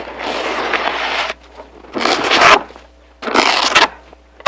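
Snow shovel digging into and scraping through deep snow: three scraping strokes about a second apart, the first the longest.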